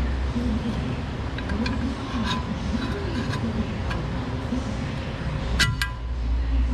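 Metal-on-metal clinks of tools and suspension hardware being worked by hand, with a few light ticks and then two sharp ringing clinks close together near the end, over a steady low hum.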